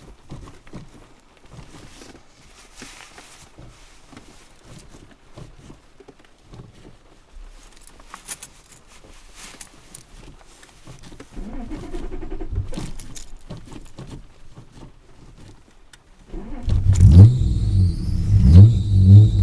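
Ford Probe car engine revving loudly, starting suddenly about 17 s in, after many seconds of quieter clicks and handling noise.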